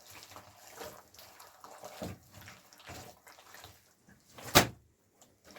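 Water splashing and sloshing in short, uneven bursts, with one sharp knock about four and a half seconds in.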